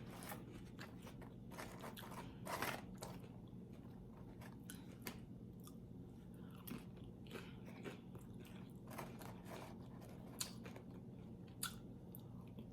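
A person chewing and biting crunchy food, faint, with scattered crunches, the loudest about two and a half seconds in, over a steady low hum.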